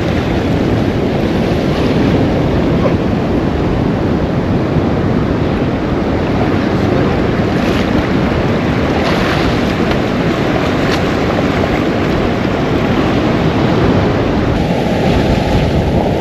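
Surf washing on the shore, mixed with steady wind rushing over the microphone.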